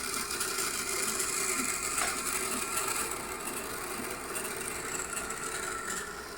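Small electric motor of a robotics-kit toy boat running, a steady geared whir that switches on abruptly and eases off near the end.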